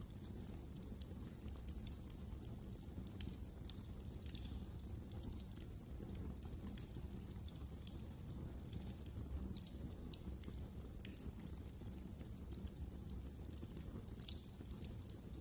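Wood fire crackling in a fireplace: many irregular sharp pops and crackles over a steady low rumble, with a few louder pops.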